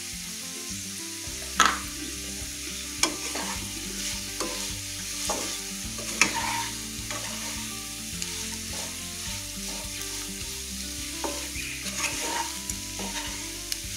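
Cubes of elephant foot yam sizzling as they fry in oil in a nonstick pan, while a spatula stirs and scrapes through them, knocking against the pan now and then. The hiss is steady, and the spatula knocks come every second or two, loudest in the first half.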